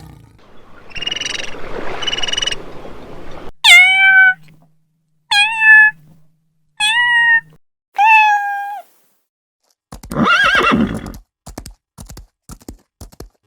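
A series of animal calls: four short, clear calls, each starting with a sharp downward slide and then holding its pitch, followed by a rougher, wavering call and a run of light clicks.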